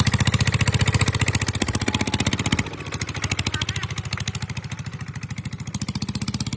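Kubota ZT150 single-cylinder diesel engine of a rice-field tractor running, a rapid, even chugging that gets quieter about two and a half seconds in.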